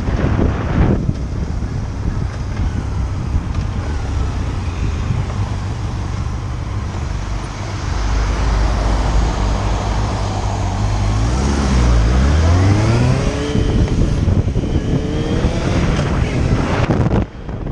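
Motorcycle riding at speed, wind rushing over the microphone and the engine running beneath. In the second half the engine pitch dips and then climbs again, as in a gear change and acceleration, and the sound cuts out briefly near the end.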